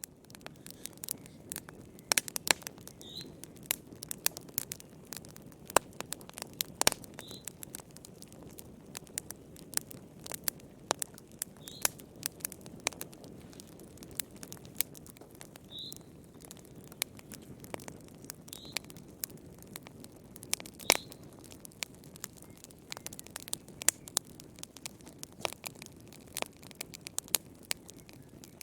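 Wood fire in a fireplace crackling and popping: a steady low rush of flame under a constant scatter of sharp snaps, some loud, with brief high squeaks every few seconds.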